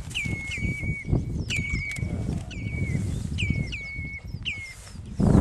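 A bird calling again and again, a short whistled note that drops sharply and then holds steady, over a low rumble, with a louder rush of noise near the end.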